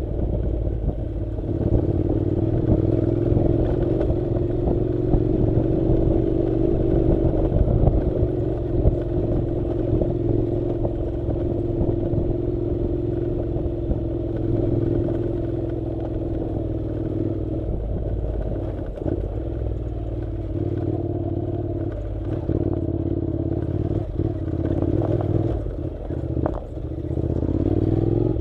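Honda NC700's parallel-twin engine running at a steady road speed, with scattered clattering knocks from the rough dirt track. The engine note eases off in the later part and rises again near the end.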